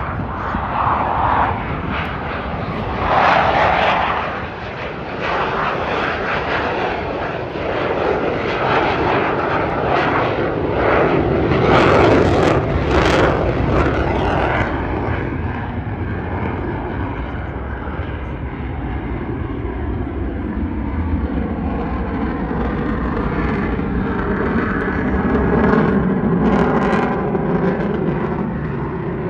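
F-16 fighter jets passing on afterburner, a broad jet roar that swells loudest about twelve seconds in and then settles into a long low rumble.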